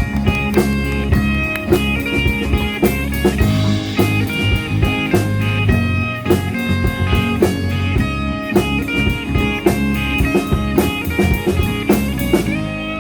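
A rock band playing an instrumental passage: guitar over bass and a steady drum beat.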